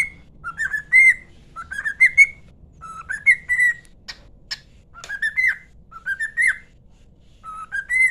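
Cockatiel whistling a short rising phrase over and over, about once a second, a tune it has learned from its owner. Two sharp clicks about four seconds in.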